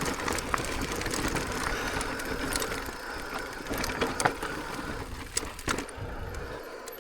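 Electric mountain bike riding down a rutted, stony hiking trail: tyres rolling over dirt and rocks, with the bike's chain and parts rattling and clicking over the bumps.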